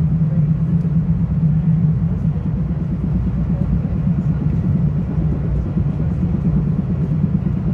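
Metro-North commuter train running along the track, heard from inside the passenger car: a steady low rumble of wheels on rail with a constant low hum.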